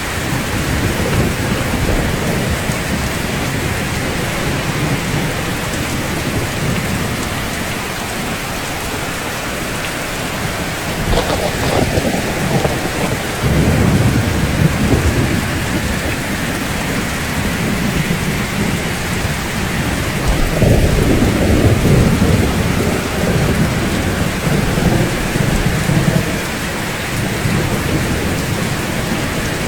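Steady rain falling, with two low rolls of thunder: one swelling about eleven seconds in and lasting several seconds, another about twenty seconds in.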